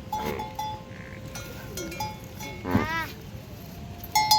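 Small livestock bells clinking and ringing repeatedly, with one loud bleat from a goat or sheep about three seconds in.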